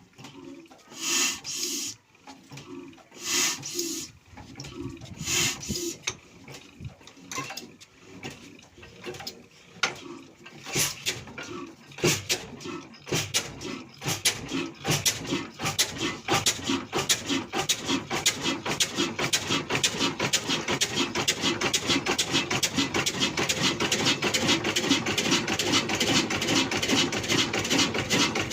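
Old black desi single-cylinder diesel engine giving slow, uneven puffs at first, then catching into a regular beat that quickens and grows louder as it picks up speed.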